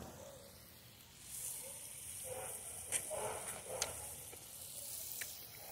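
Someone biting into and chewing a fresh strawberry close to the microphone: soft wet crunching and mouth sounds with a few sharp clicks, over a faint hiss.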